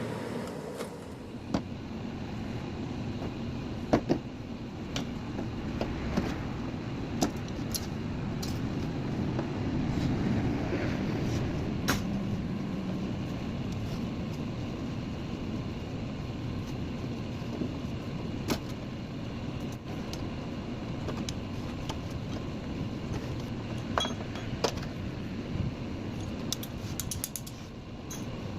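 Scattered sharp metallic clicks and knocks from hand work on a window air conditioner, with a cluster of quick ticks near the end, over a steady low rumble.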